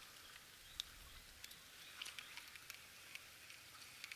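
Near silence: faint outdoor background hiss with a few scattered light ticks.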